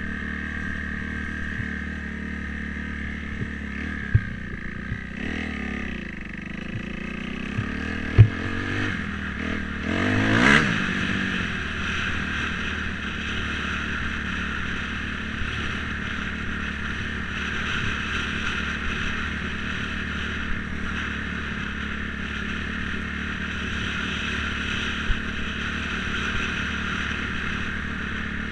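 Dirt bike engine running steadily while riding, revving up and back down about ten seconds in, with a few sharp knocks.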